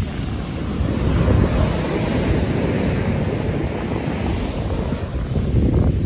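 Wind buffeting the microphone in gusts over a steady rush of water and waves.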